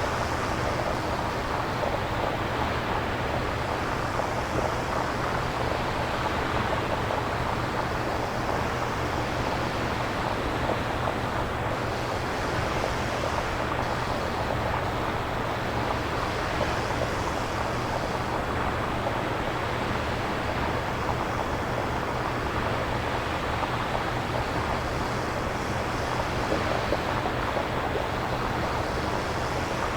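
Synthesizer-generated nature sound: a steady rushing noise imitating surf and wind, with slow gentle swells every several seconds.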